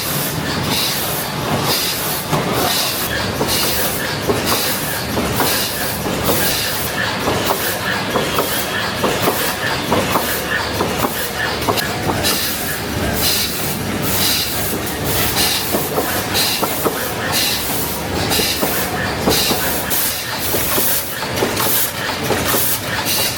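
Factory machinery running with a continuous dense clatter: irregular clicks and knocks over a constant hiss and rumble.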